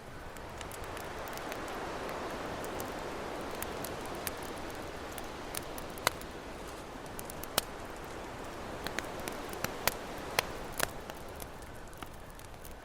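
Campfire crackling, with sharp pops scattered through and several loud ones in the second half, over the steady wash of ocean surf that builds over the first couple of seconds.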